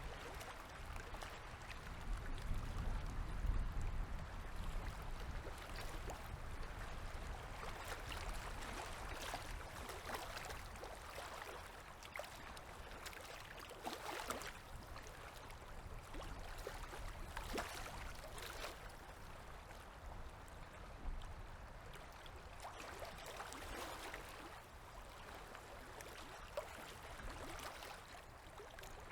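River water lapping and trickling along the shore, with small splashes now and then. A low rumble about two to four seconds in.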